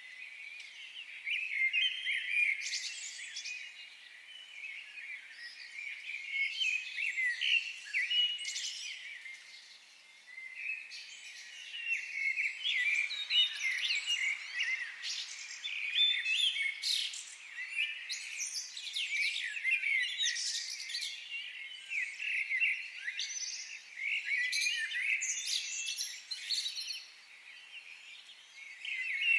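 Several small birds singing and chirping at once in a forest, a dense chorus of quick high chirps and trills that swells and eases every few seconds.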